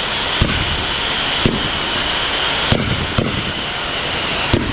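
Fireworks display: five sharp bangs of bursting shells at irregular intervals of roughly a second, over a continuous hiss.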